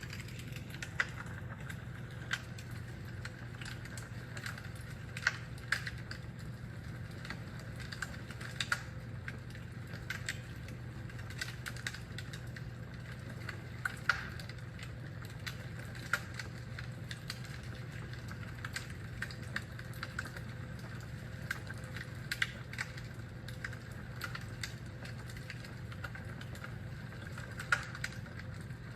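Fireplace fire crackling: irregular small crackles with a sharp, louder pop every second or two, over a steady low hum.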